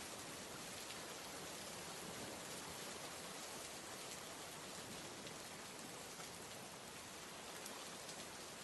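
Faint steady rain, an even hiss with scattered soft drop ticks.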